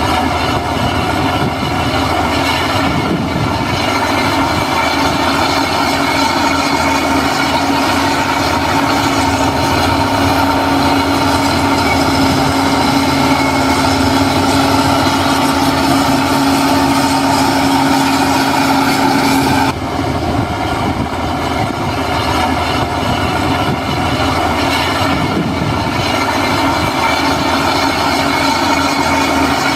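Heavy diesel construction machinery running steadily, a continuous engine drone with a steady hum in it; the sound changes abruptly about two-thirds of the way through.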